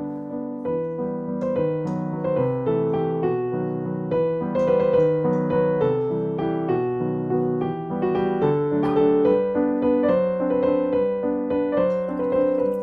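Background piano music: a gentle melody played note by note over held chords.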